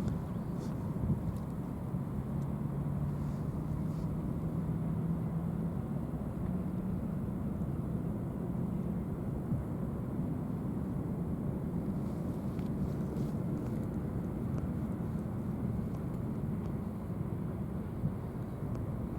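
Steady low drone of large engines, with a few faint humming tones that shift slightly in pitch.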